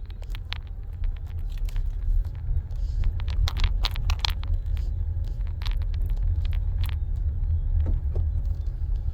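Car driving on a snow-covered road, heard from inside the cabin: a steady low road rumble with scattered sharp clicks and crackles.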